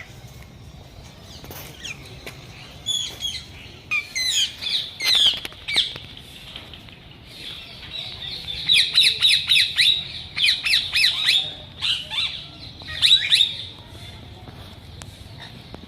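Small caged parrots calling: many short, shrill squawks falling in pitch, scattered at first, then in a fast run of calls past the middle.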